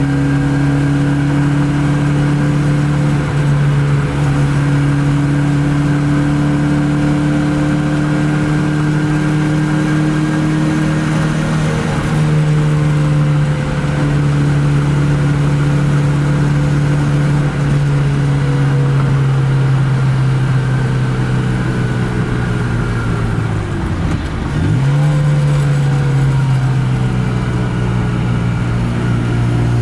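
Austin Mini's BMC A-series four-cylinder engine running at fairly steady revs while driving. The note sags slowly, then about 24 seconds in drops sharply and climbs straight back.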